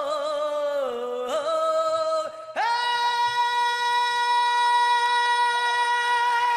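A man singing a pop-song line with vibrato, breaking off briefly, then holding one long high note steady for about five seconds. This is the climactic line where his voice had cracked before, re-sung at a judge's request.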